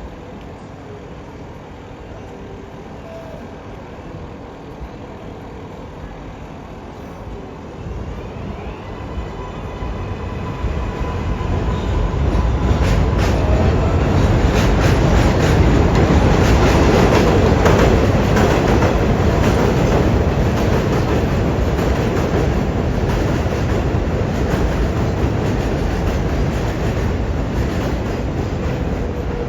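New York City Subway R188 7 train running along the steel elevated line. Its rumble grows over about ten seconds and then stays loud, with rapid clacking of wheels over rail joints, easing off slightly near the end.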